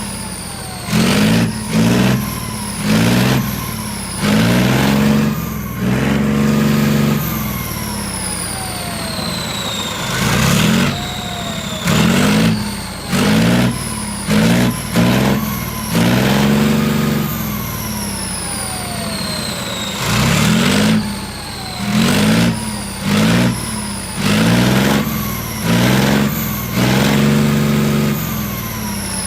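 Leopard 2A7 tank's MB 873 V12 diesel being revved in short, repeated blips. Runs of several quick revs recur about every ten seconds, and a high whine falls away slowly between them.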